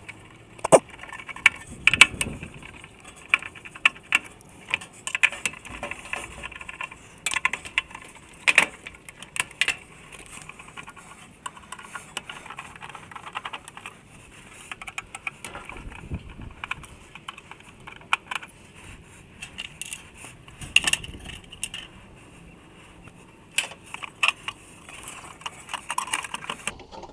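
Metal tools and small metal parts being handled during hands-on repair work: irregular sharp clicks and clinks, some louder knocks among them, with no steady rhythm.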